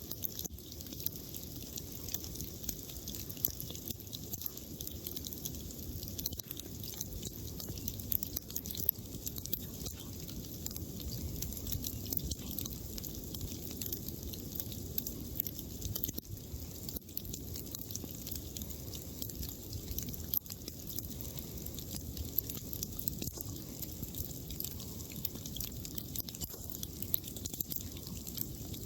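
Wood campfire burning steadily and crackling, with many small sharp pops scattered throughout over a low, even rush of the flames.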